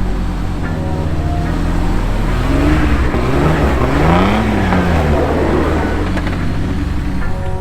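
Jeep engine revving, its pitch rising to a peak about halfway through and falling back, over background music.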